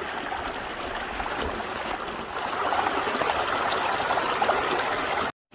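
Creek water flowing in a steady rush, getting louder a little past halfway and cutting off suddenly near the end.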